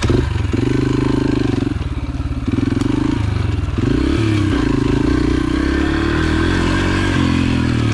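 Yamaha TT-R125 single-cylinder four-stroke dirt bike engine running under way, its pitch rising and dropping in steps as the throttle is worked and it shifts through gears.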